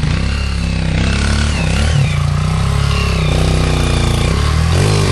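Small pit bike engine running close by, its revs rising and falling unevenly.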